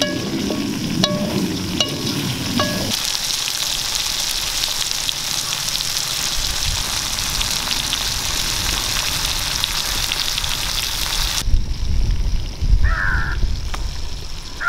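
Onions, garlic, tomatoes and dried red chillies frying in oil in a kadai over a wood fire. A metal ladle stirs and scrapes the pan for the first few seconds, then a steady sizzle with fine crackles goes on until it cuts off abruptly. Near the end a crow caws once over a low rumble.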